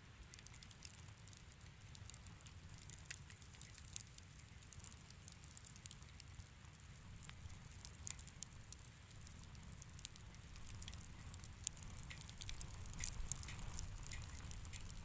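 Fire crackling in a fireplace: scattered small pops and snaps over a low rumble, the crackles coming thicker near the end.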